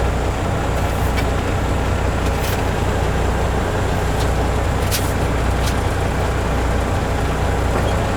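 Kenworth truck's diesel engine running with a steady low drone, heard from inside the cab, with a few faint sharp ticks.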